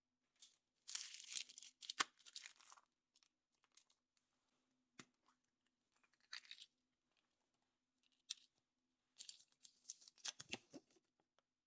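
Foil wrapper of a chocolate surprise egg being torn and crinkled, in two spells of dense crackling about a second in and near the end, with a few sharp clicks and short rustles between them.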